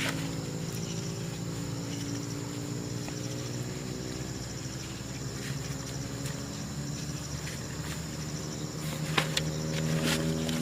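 Insects chirping in an even, pulsing trill over a steady low hum, with a few sharp clicks near the end.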